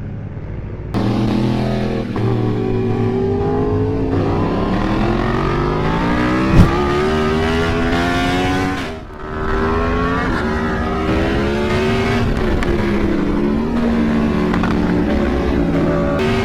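Sportbike engine accelerating hard, its pitch climbing and dropping back again and again as it shifts through the gears, with a brief sharp click about six seconds in and a short lift-off a little after nine seconds.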